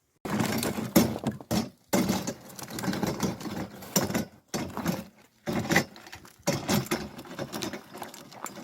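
Split firewood knocking and clattering in a quick run of sharp impacts, with a few brief breaks.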